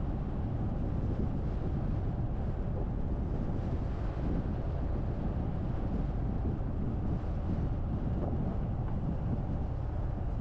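Steady low rumble of a car driving, road and wind noise with no change in pitch.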